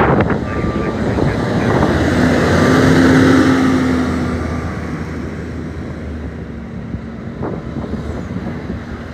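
A vehicle passing on the street, its engine and tyre noise swelling to a peak about three seconds in and then fading away.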